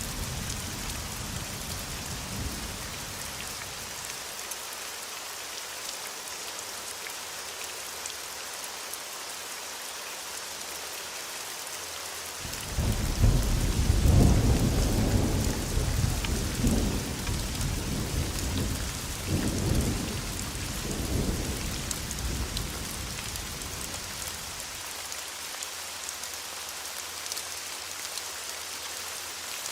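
Steady heavy rain hissing on surfaces, with thunder: a low rumble fades out over the first few seconds, then a loud thunderclap breaks suddenly about halfway through and rolls on in waves for about ten seconds before dying away.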